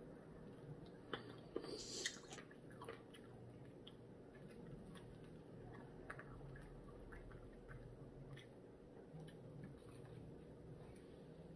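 A person biting into and chewing crispy fried chicken, with a crunchy cluster of bites about one to two seconds in, then quiet chewing with scattered small clicks.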